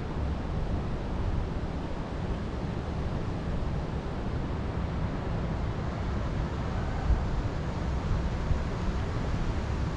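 Wind blowing through a forest, gusting against the microphone with a low, fluctuating rumble.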